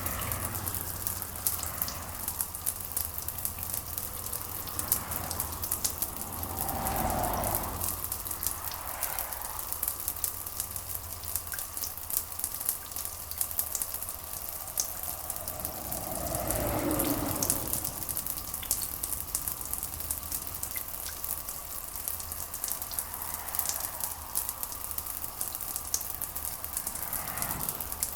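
Steady rain with dense, fine drop ticks. A deeper rushing sound swells and fades about seven seconds in and again about seventeen seconds in.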